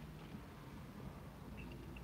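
Faint chewing: a mouthful of burger worked with the mouth closed, with small wet mouth clicks near the start and near the end, over a low steady background rumble.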